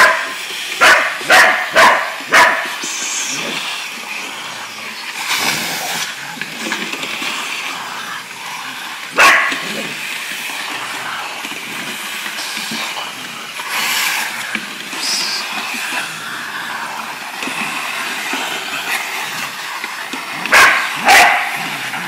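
A sharpei-cattledog cross barking at a running vacuum cleaner: four quick barks near the start, one more about midway, and two near the end, over the vacuum's steady whirring.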